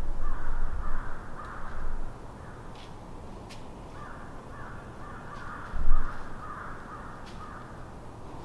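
A bird calling over and over in harsh caws, in two bouts, with a single loud low bump about six seconds in.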